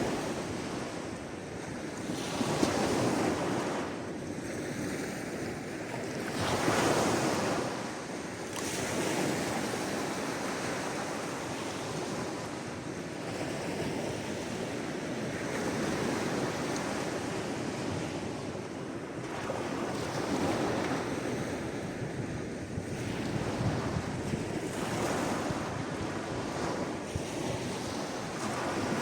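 Sea waves washing against the shore, a continuous surf noise that swells with each wave every few seconds, the biggest surges about two seconds in and about seven seconds in.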